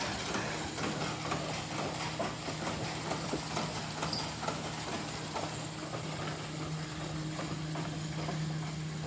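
A steady low machine hum, with faint scattered knocks and clicks over it.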